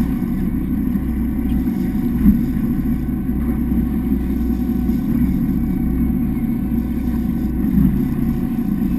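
Fishing boat's engine running steadily underway, a constant low drone.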